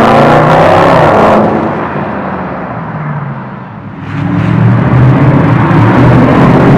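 Mercedes SLS 63 AMG's 6.2-litre V8 through an MEC Design aftermarket exhaust, accelerating hard and rising in pitch as the car sets off, then fading away. About four seconds in it returns at full level, running more steadily at a gentler pace as the car drives by.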